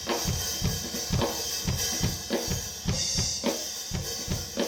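A live soul band plays an instrumental groove with the drum kit to the fore: a steady beat of kick and snare drum with hi-hat and cymbals, and other instruments underneath.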